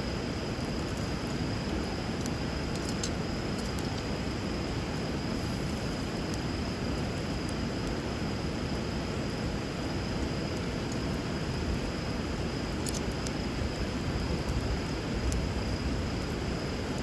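River water rushing steadily, with a few faint sharp crackles and pops from a wood bonfire burning on the water.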